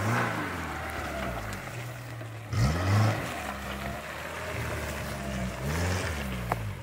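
Daihatsu Feroza's four-cylinder engine pulling under load, revving up three times and easing off in between, with a light click near the end.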